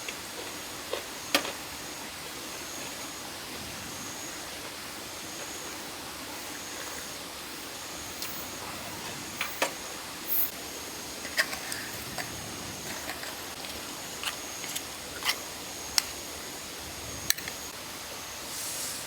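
Steady rushing background noise, like running water, with a faint high-pitched drone that swells and fades every second or so. About a dozen light clicks and knocks are scattered through it, and there is a short hiss near the end.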